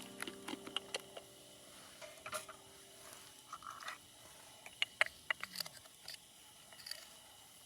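Campfire crackling: irregular sharp pops and snaps over a faint hiss, a few louder ones about five seconds in.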